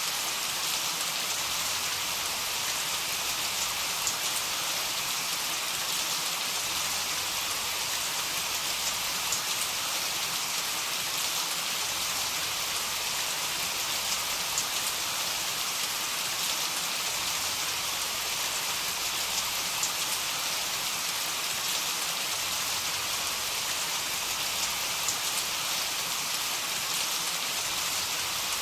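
Heavy rain falling steadily: a dense, even hiss with faint scattered drop ticks and no thunder.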